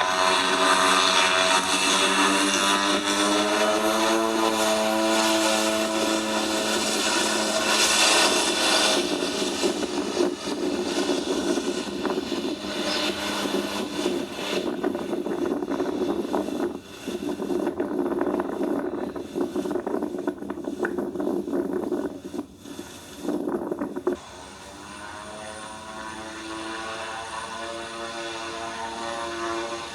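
Airliner engines passing close by, a stack of engine tones gliding down in pitch over the first few seconds. The sound drops suddenly about 24 seconds in, and fainter engine tones rise toward the end.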